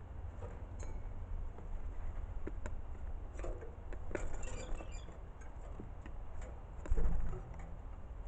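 Scattered light taps and clinks, as of pet birds pecking and hopping about, with a dull thump about seven seconds in.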